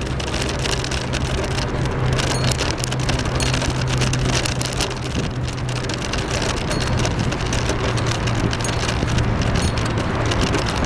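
Steady rushing noise of a bicycle riding along a path, full of small clicks and rattles, with a low steady hum underneath.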